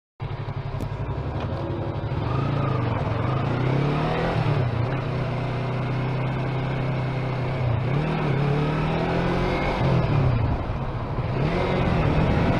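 Car engine running under way, its pitch falling and rising again several times as the car slows and speeds up, over steady road noise.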